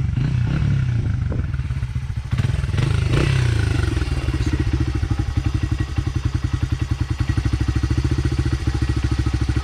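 Dirt bike engine at a low idle that sounds close to stalling. It is revved briefly about half a second in and again about three seconds in, then settles into a steady, even idle.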